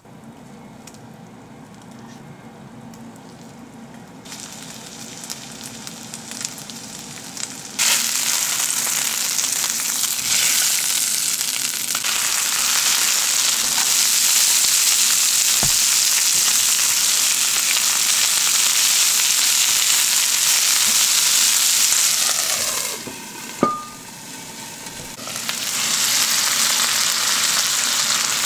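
Butter sizzling faintly in a frying pan, jumping about eight seconds in to a loud, steady sizzle as white fish fillets and chopped komatsuna fry. The sizzle dips briefly near the end with a click, then comes back.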